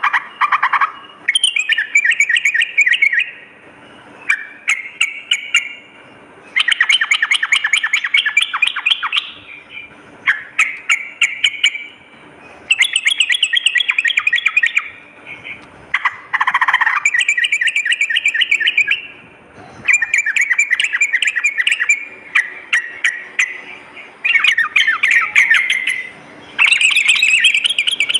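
Yellow-vented bulbul (trucukan) singing: rapid, bubbly chattering phrases, each a second or two long, repeated over and over with short pauses between.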